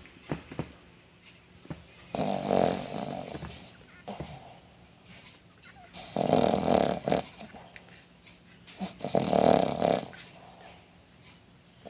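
Shih tzu snoring: three loud snores roughly three seconds apart, each lasting over a second, with quieter breaths between.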